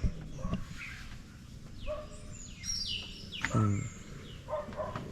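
Wild birds chirping: several short, high calls that fall in pitch, over steady outdoor background noise.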